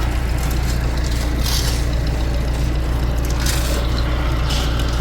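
Engine of the concrete-pouring machinery running steadily under load, with short bursts of hissing and rattling about a second and a half in and again near three and a half seconds.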